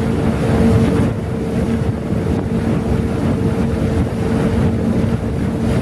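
Boat engine running with a steady drone, under wind buffeting the microphone and the rush of water.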